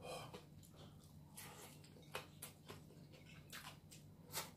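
Close-up chewing of crispy fried chicken: a scatter of short, sharp crunches and mouth clicks, the loudest near the end.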